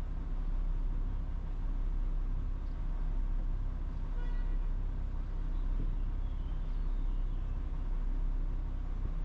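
Steady low engine rumble, with a brief high pitched tone about four seconds in.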